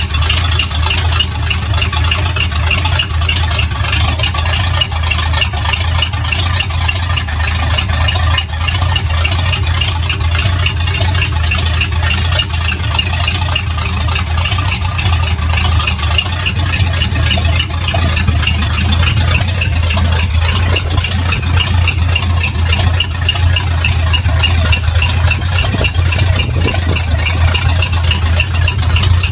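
1947/48 Chevrolet panel truck's engine idling steadily, with a fast, even ticking running over the low hum.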